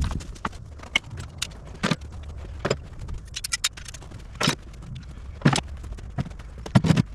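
Hand tools being gathered and loaded up: irregular knocks and clatters, some of them sharp metallic clinks, unevenly spaced over a low steady rumble.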